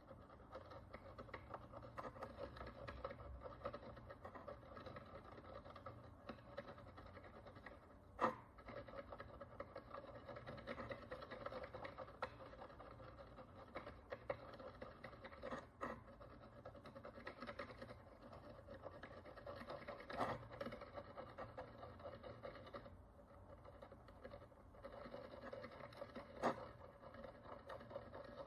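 Faint, continuous fine scratching and scraping of a small hand tool working the crust off a bronze coin, with a sharp click or tap now and then.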